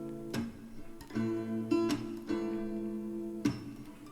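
Background song between sung lines: acoustic guitar strumming a run of sustained chords.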